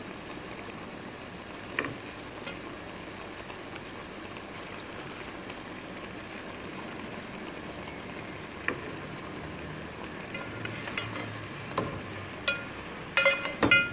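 Chicken and potato pieces frying in oil in a metal cooking pot: a steady sizzle, with a few faint clicks scattered through it.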